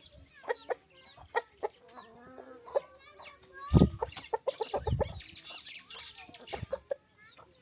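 Chickens clucking, with a scatter of sharp clicks and taps and two heavy low thumps at about four and five seconds in.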